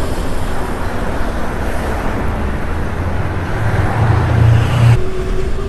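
A steady roar of wind and road noise with a deep rumble, heaviest about four seconds in, which cuts off abruptly near the end.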